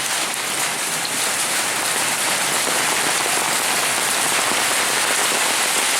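Rain falling steadily, with small bits of hail mixed in.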